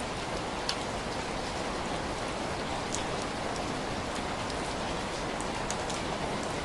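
Steady rain falling, an even hiss with a few short, sharp clicks scattered through it.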